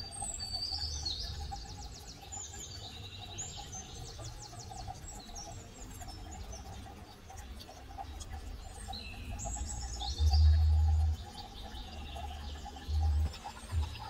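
Birds singing, quick chirps and trills coming in two spells, the second starting about nine seconds in. A deep, low rumble breaks in about ten seconds in and briefly again near the end.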